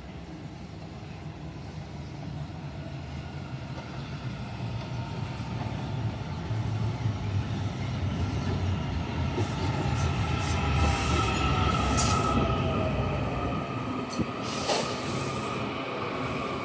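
WMATA Metrorail train coming into the station, growing louder as it nears. Its motors whine down in pitch as it slows, its wheels squeal, and there are a few sharp clicks from the track.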